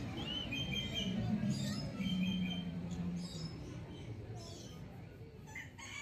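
Birds chirping and calling in short whistled notes over a steady low background din.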